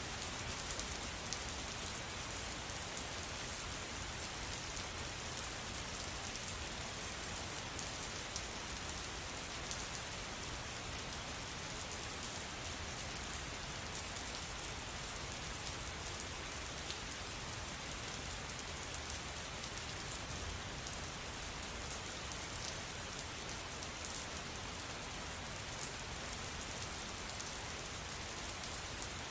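Steady rain falling, with many small drops pattering on a surface, at an even level throughout.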